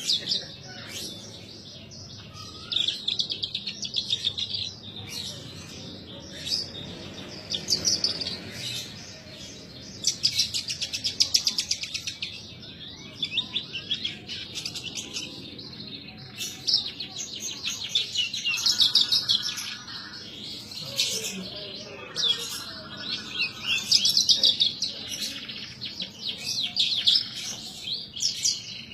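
Javan bush lark (branjangan) in full song: a continuous run of high, rapid trills and chirping phrases in bursts of a few seconds with short breaks between.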